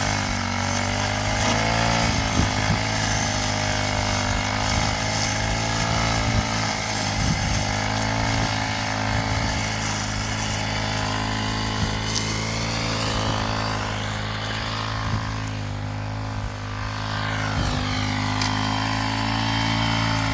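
Petrol brush cutter (grass trimmer) engine running steadily at high speed. About three quarters of the way through, its pitch sags and then recovers.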